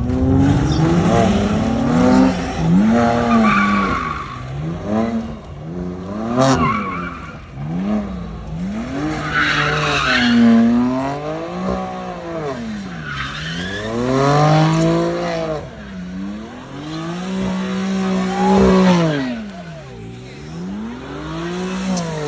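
A car engine revving up and down over and over while the tires spin and squeal, barely gripping the pavement. The engine pitch rises and falls roughly every one to two seconds.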